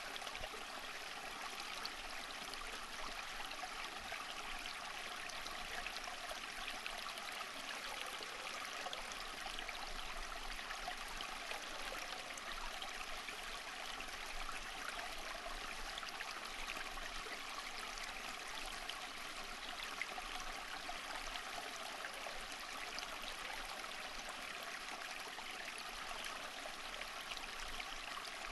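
Steady flowing water, like a stream running over stones, with a continuous even rush and fine splashing.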